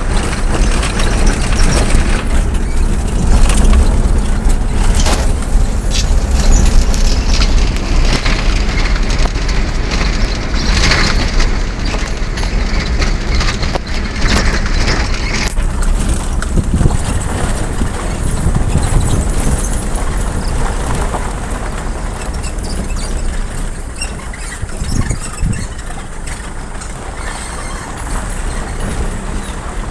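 A moving road vehicle: a steady low rumble of engine and road noise with a hiss on top, easing somewhat after about sixteen seconds.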